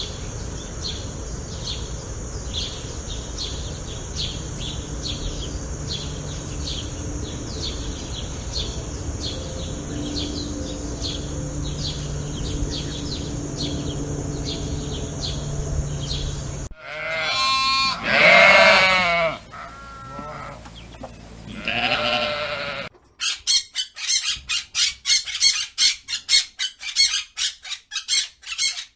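Horse hooves clip-clopping at a steady even pace over constant background noise. About 17 seconds in this gives way to two loud, wavering bleats from a sheep or goat. From about 23 seconds a bird squawks over and over, about three times a second.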